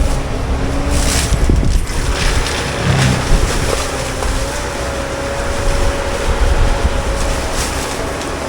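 CAT 299D3 XE compact track loader running a Fecon forestry mulcher head: a continuous heavy machine noise, loudest at the low end, with a steady whine through it.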